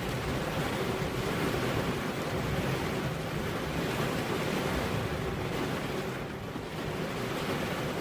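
Steady, dense rain noise: a continuous hiss with no separate drops standing out, dipping briefly about six seconds in.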